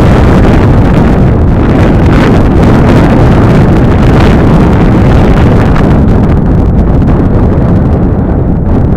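Strong gusting wind buffeting the microphone: a loud, continuous rumbling rush with no pause.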